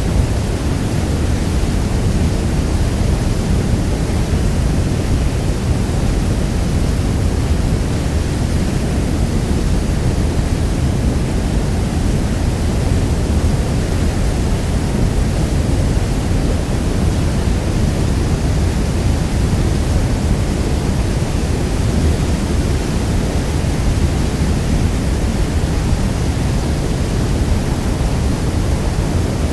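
Niagara Falls: a huge waterfall's steady, deep roar of falling water, unchanging throughout.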